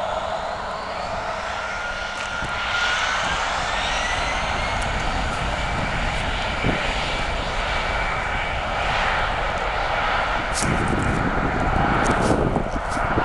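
Airbus A319 jet engines spooling up for takeoff: a whine rises in pitch over the first few seconds, then holds steady over the engines' broad noise. Wind buffets the microphone near the end.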